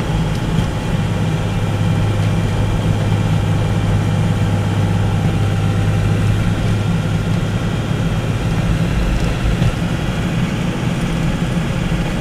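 Mazda Navajo's V6 engine running steadily under way, heard from inside the cabin as a constant low drone while the truck drives through unplowed snow.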